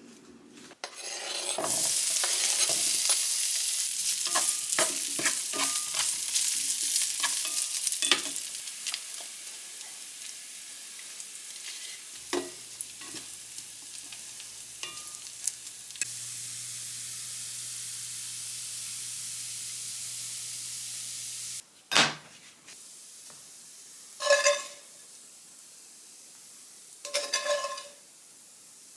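Chickpea scramble frying in a hot pan: a loud sizzle starts a couple of seconds in and dies down after about eight seconds, while a utensil clicks and knocks against the pan as it is stirred. Near the end come a few short scrapes in the pan.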